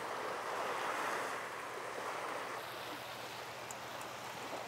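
Small waves washing over stones at the shoreline, a steady rushing hiss that swells slightly about a second in.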